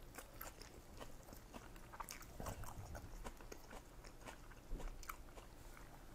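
A person chewing a mouthful of fresh rice-paper spring roll with crisp lettuce: faint, irregular wet crunching and small mouth clicks.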